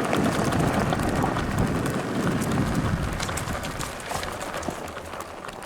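Dirt bike riding over a rough dirt road: a steady noise full of rapid rattling ticks from the tyres and the shaking bike-mounted camera. It dies down gradually toward the end.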